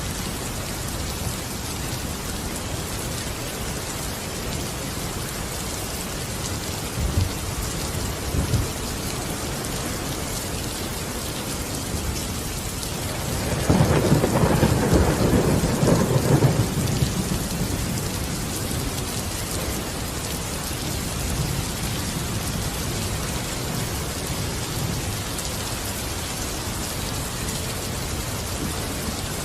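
Steady rain falling, with two short low thumps about seven and eight seconds in, and a roll of thunder lasting about three seconds around the middle.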